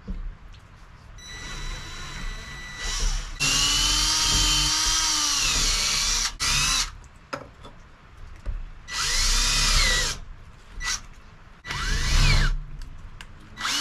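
Power drill boring holes through the steel tang of a Damascus knife blade, run in several bursts: one long run, then shorter ones, the motor whine dipping in pitch as the bit bites and rising again.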